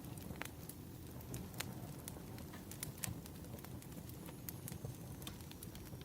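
Burning firewood crackling: irregular sharp pops and snaps over a low steady rumble of flames.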